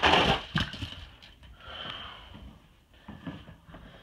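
Toy monster trucks released down a two-lane race track: a loud rush of rolling and clattering right at the start, then a few sharp knocks and quieter rolling as they run.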